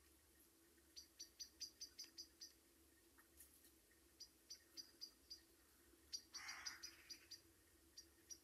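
Faint bird calls: three runs of short, high chirps, about five a second. There is a brief soft rustle a little past six seconds in and a faint steady hum beneath.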